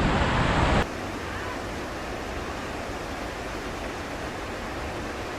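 Rushing river water with wind on the microphone, loud for the first second, then cutting suddenly to a quieter, steady rush of water.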